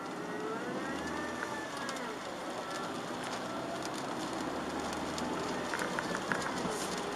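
Car driving on a wet road in the rain, heard from inside the cabin: steady tyre and rain noise with the low hum of the Chevrolet Aveo's 1.4 petrol engine. Several whining tones glide up and down over it, and a few short ticks come near the end.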